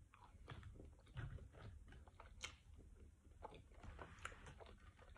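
Faint chewing of crunchy nacho cheese Doritos, a run of small irregular crunches close to the mouth.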